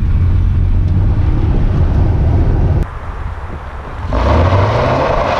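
Chevy pickup truck's V6 engine and drivetrain rumbling inside the cab while driving, easing off about three seconds in. The rumble picks up again about a second later, joined by loud tyre noise on the dirt road.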